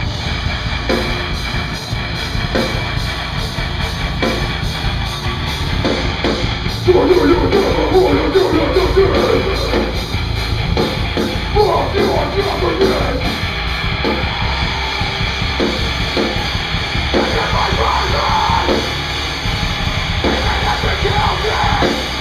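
Live band playing heavy rock or metal with a drum kit, joined by yelled vocals about a third of the way in.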